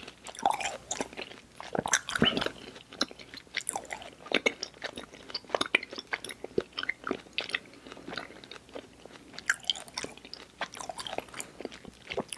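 Close-up mouth sounds of someone chewing soft, sticky Airheads Xtremes sour candy: irregular wet smacks and clicks as the jaw works the chewy mass.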